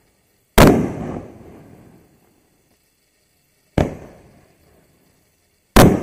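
Three loud bangs from 4-inch canister mortar shells going off, spaced a few seconds apart, each dying away with an echo over about a second.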